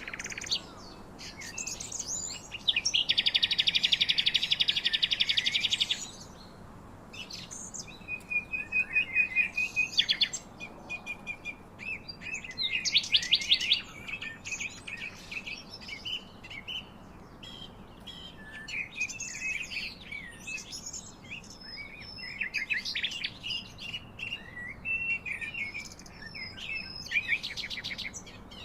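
Songbirds chirping and singing, several calls overlapping. A long, rapid trill starts about three seconds in and lasts about three seconds, followed by shorter chirps and warbles.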